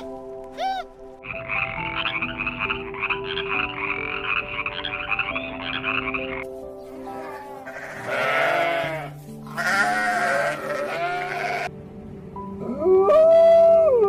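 Animal calls over soft background music: a rapid rattling croak for about five seconds, then two loud bleats from a sheep, then a drawn-out, pitched animal call near the end.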